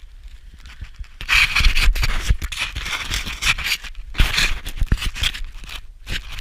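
Scraping and shuffling of someone moving over rock and loose stone in a mine passage, in two long stretches with a few dull knocks.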